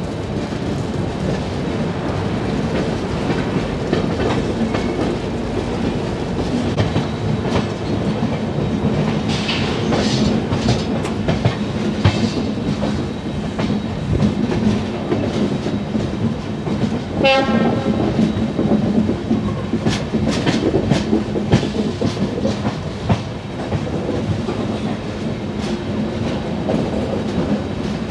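Indian Railways express train coaches rolling over rail joints and points, the wheels clattering with sharp clacks. A train horn sounds briefly about two-thirds of the way through.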